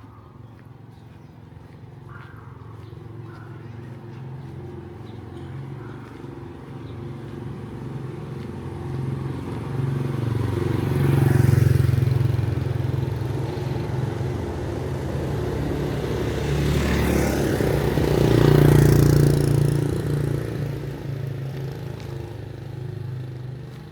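Motor vehicle engines passing close by. A steady engine hum swells into two loud passes, about 12 and 18 seconds in, then fades.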